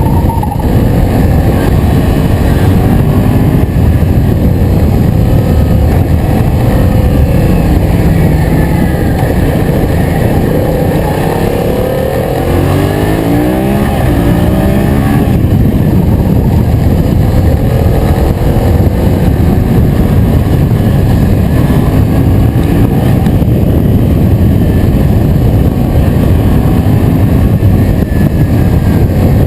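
Yamaha MT-07's 689 cc parallel-twin engine running under way, heard with heavy wind rush on the helmet or bike-mounted camera. The engine pitch climbs a little before the middle as the bike accelerates.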